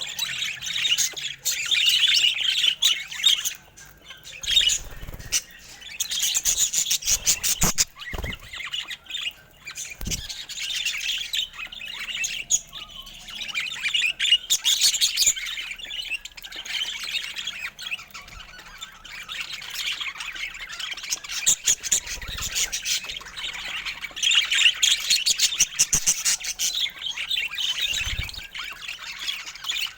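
Budgerigars chattering and chirping without a break, a busy run of rapid high chirps, with a few low thumps among them.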